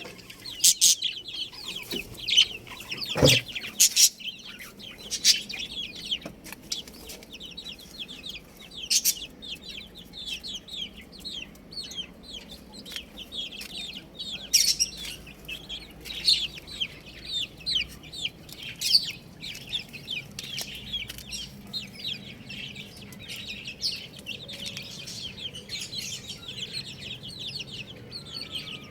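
A group of chicks peeping and chirping continuously in many short high calls, with a single sharp knock about three seconds in.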